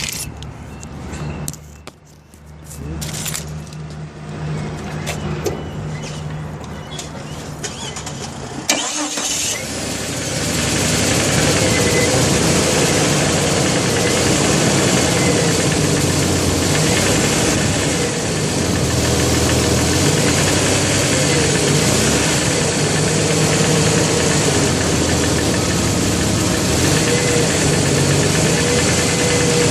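Jeep engine restarted while hot, catching about nine seconds in and then running steadily with a knock that the owner takes for piston slap.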